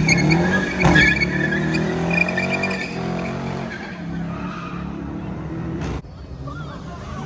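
Car engine revving hard with tyres squealing and skidding, as in a burnout or drift. It is loudest in the first few seconds, then eases off and drops away suddenly about six seconds in.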